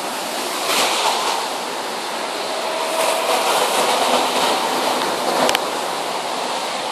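Steady rain falling, an even hiss of water, with a single sharp click about five and a half seconds in.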